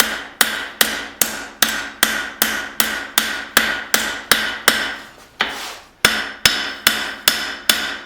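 Blacksmith's hand hammer striking hot leaf-spring steel on an anvil, forging a knife blade: a steady run of ringing blows, about two and a half a second, with a brief pause about five seconds in.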